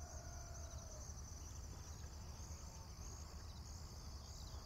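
Faint, steady, high-pitched insect chirring over a low hum.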